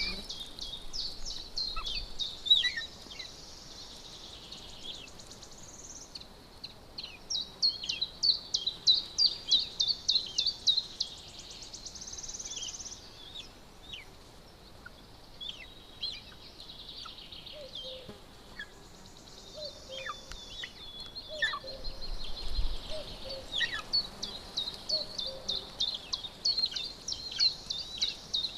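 Birds calling with high chirps and fast trills in repeated bursts, over a steady hiss of outdoor background noise.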